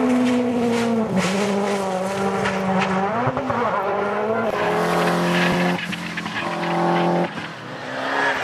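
Rally car engine at high revs, its pitch holding steady for a second or two at a time and stepping down, with a drop in level near the end.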